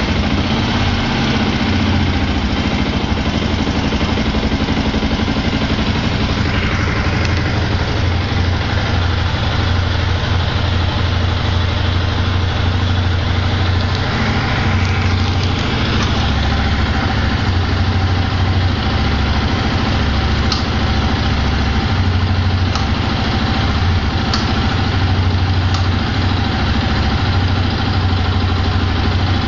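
Yamaha YZF-R125's single-cylinder four-stroke engine idling steadily through its original stock exhaust.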